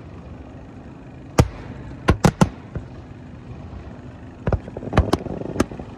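Professional aerial fireworks going off in an uneven string of sharp bangs: a single bang about a second and a half in, a quick cluster of three around two seconds, and another run of bangs from about four and a half seconds on.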